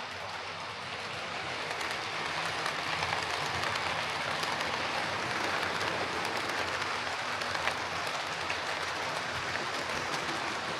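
Bachmann Class 37 OO gauge model locomotive running along the track, its motor and wheels making a steady, even noise that grows louder about two seconds in. It is running again after its motor was given a squirt of lubricant.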